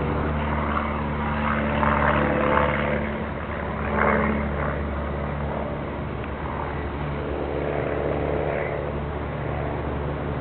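Nissan Versa's 1.6-litre four-cylinder engine idling steadily, a constant low hum from the exhaust.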